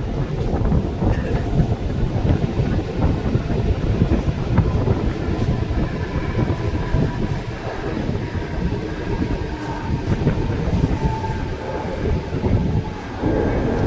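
Mumbai suburban local train, an electric multiple unit, running along the track as heard from aboard: a steady rumble and rattle of the coaches with clicks of wheels over rail joints. A faint high whine joins in from about halfway through.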